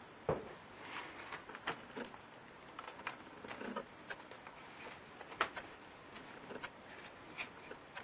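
Small irregular clicks and taps of a laptop's plastic and metal parts being handled during disassembly, with two sharper knocks, one just after the start and one about five seconds in.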